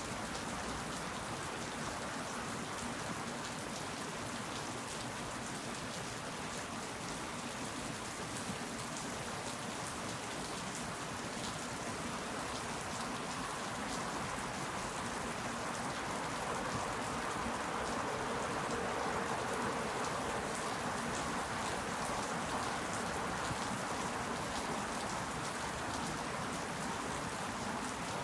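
Steady rainfall, an even hiss with many fine drop ticks, swelling slightly a little past the middle.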